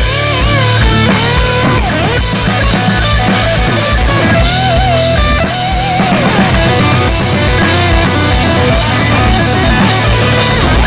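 Live heavy rock band playing an instrumental break: a lead electric guitar plays a melody with bends and slides over distorted rhythm guitar, bass and a steady kick drum.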